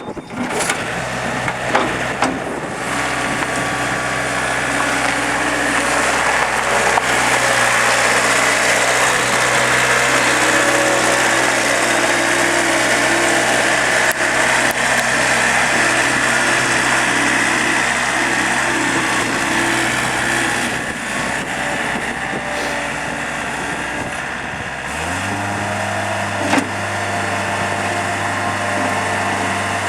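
Mustang 2054 skid steer loader's engine running steadily at a low speed, then stepping up to a higher, steady speed about 25 seconds in.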